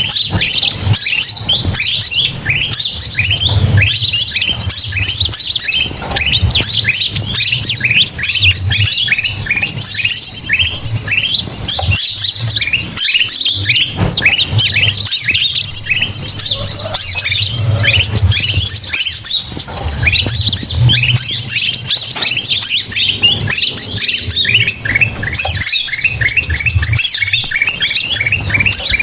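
Dense, unbroken chorus of many birds chattering, chirping and squawking together: a lure-recording mix that includes kutilang mas (bulbul) calls. A low hum runs beneath it.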